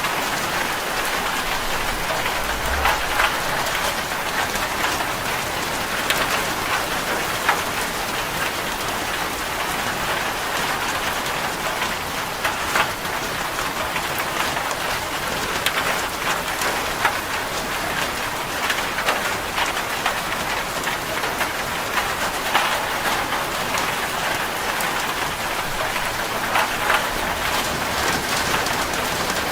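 Steady rain drumming on a corrugated zinc (seng) roof, a dense patter of countless drop strikes on the metal sheeting.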